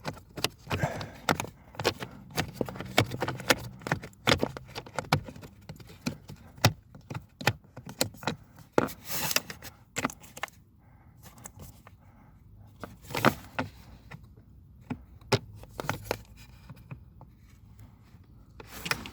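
Hand tools and small parts clinking, tapping and scraping during work on the HVAC flap motor mounting, where a screw is being fitted: irregular clicks and knocks, busy at first and sparser in the second half, with a few louder knocks.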